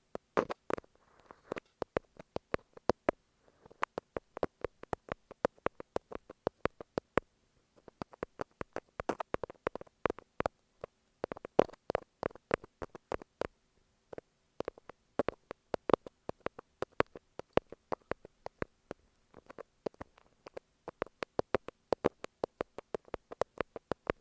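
Thumbtacks tapping and scratching on masking tape right on an earphone microphone: a close, irregular run of sharp clicks, several a second, with brief pauses.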